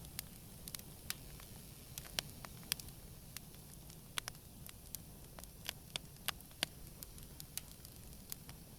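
Wood campfire burning gently: irregular sharp crackles and pops, several a second, over a low steady hiss of flames.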